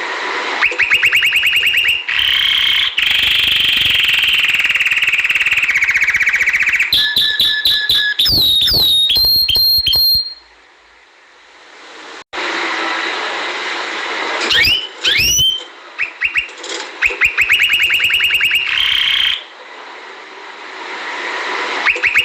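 Domestic canary singing: long rapid rolling trills, quick rising and falling whistled glides and a held high whistle, with a short pause about halfway through.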